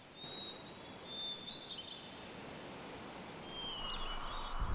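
Birds calling in short, high whistled phrases, several times, over a steady outdoor hiss; a rushing noise swells near the end.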